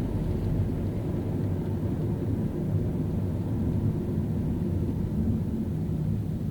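Steady low rumble of a car driving on a rain-wet road, engine and tyre noise without sudden events.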